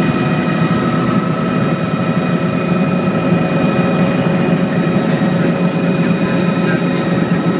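Helicopter in flight: a steady, loud drone of engine and rotor, with several steady whining tones above it.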